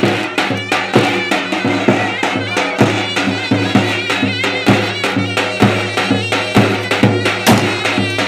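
Turkish folk dance tune (oyun havası) played loud, with a shrill, ornamented reed-pipe melody over a steady drum beat.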